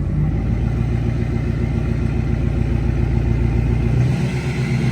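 Pickup truck engine running steadily at low speed while maneuvering a trailer; its tone shifts slightly about four seconds in.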